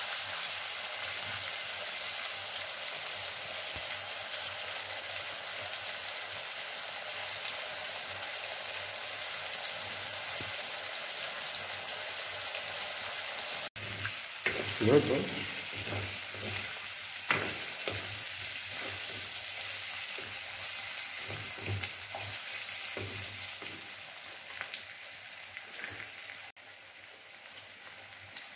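Eel pieces and onions sizzling in hot oil in a wok. From about halfway, a steel ladle scrapes and knocks against the pan as they are stirred. The sizzle grows quieter near the end.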